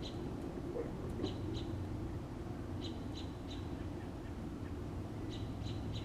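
Small bird chirping: short high chirps in quick groups of two or three, repeated every second or two, over a steady low hum.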